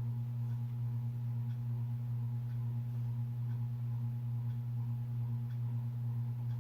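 A steady low hum with a few fainter steady higher tones over it and faint ticks about once a second.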